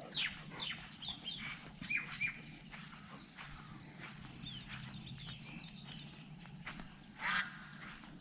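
Birds chirping in short scattered calls, several in the first two seconds and a louder falling call about seven seconds in, over a steady high-pitched hiss.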